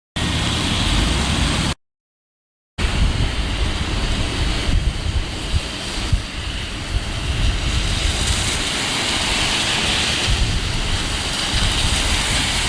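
Wind gusting against the microphone over a steady rushing hiss, cut off by a short silent gap about two seconds in.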